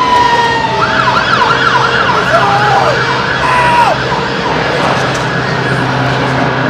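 Emergency vehicle siren: a long falling wail ends about a second in, then switches to a fast up-and-down yelp of about three sweeps a second that stops about four seconds in. A steady low engine hum runs underneath.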